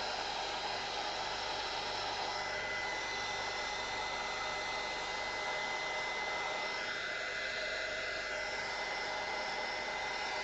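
Heat gun running steadily, its fan blowing hot air with a rushing sound and a thin high whine that comes in a couple of seconds in, used over freshly poured epoxy resin to pop surface bubbles.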